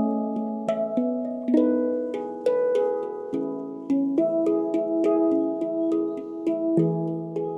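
Handpan being played by hand: a flowing run of struck notes, several a second, each ringing on with bright overtones over the one before.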